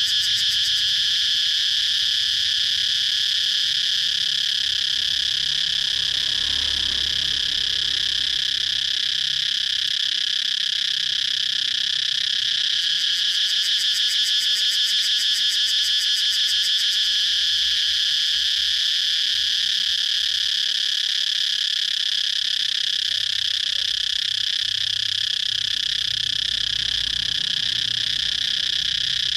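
Cicadas singing: a continuous, steady, high buzzing chorus with a fine rapid pulse, holding without break.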